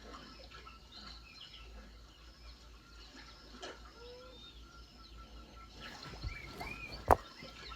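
Natural ambience of birds chirping and calling in short, scattered notes, with a few arching calls near the end. A single sharp click about seven seconds in stands out as the loudest sound.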